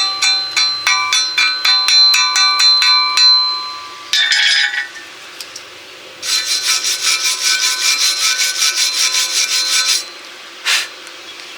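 Metal piece ringing under a quick run of strikes, about four a second, for some three seconds. After a short scraping burst, a faster run of ringing strikes or scrapes follows for about four seconds, then a brief scrape near the end.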